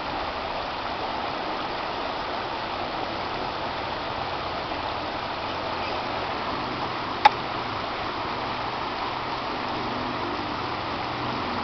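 Steady rushing of a stream's flowing water, with a single sharp click about seven seconds in.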